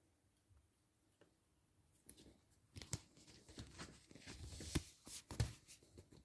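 Faint clicks and rustles, handling noise, starting about two seconds in and coming irregularly, busiest in the second half.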